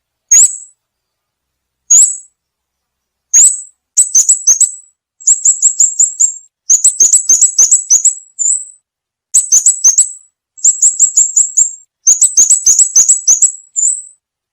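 Recorded bulbul (chim ốc mít) lure call: sharp, high chirps, three single notes spaced apart, then quick runs of five or six chirps repeating about once a second.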